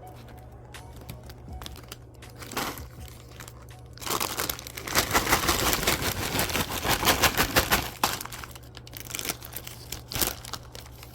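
Crinkling and rustling handling noise, densest and loudest for about four seconds in the middle, with a few sharp clicks before and after and a steady low hum underneath.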